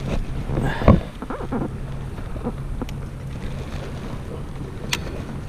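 Water and wind noise around a kayak during a bass fight, with one loud thump about a second in, a few softer knocks after it, and a sharp click near the end.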